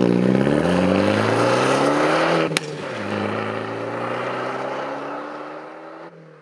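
Car engine accelerating hard, its pitch rising, then dropping sharply with a click at an upshift about two and a half seconds in, and rising again more quietly before fading out near the end.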